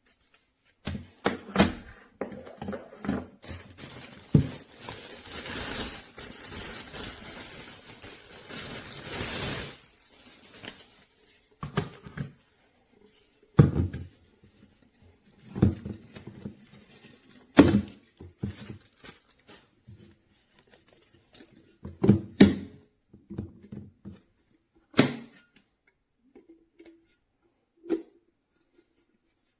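A series of sharp knocks and clunks of hard objects being handled. From about four to ten seconds in there is a steady rushing noise.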